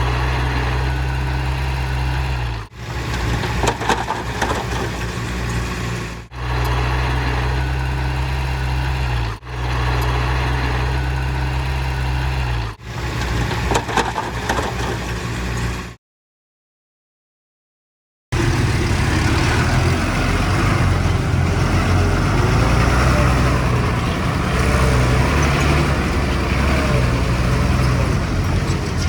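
Diesel engine of heavy earthmoving machinery running with a steady low hum, in short clips cut abruptly every three to four seconds. About two seconds of silence come past the middle, then the engine runs on unbroken, rougher, to the end.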